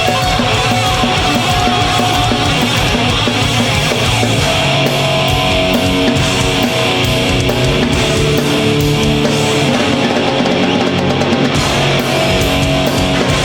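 Live heavy metal band playing loudly: distorted electric guitars holding sustained notes over bass and steady drum hits.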